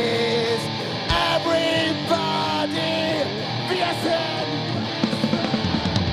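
Live rock band playing: a guitar melody with held and sliding notes over bass, with drum hits growing busier near the end.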